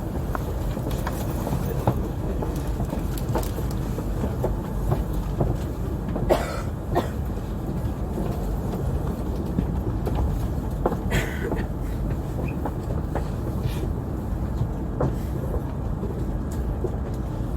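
Inside a moving passenger train: a steady low running rumble with scattered small clicks and knocks.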